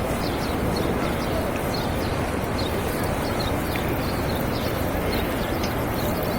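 Steady outdoor din of a busy plaza with many short, high bird chirps scattered through it, around a flock of pigeons.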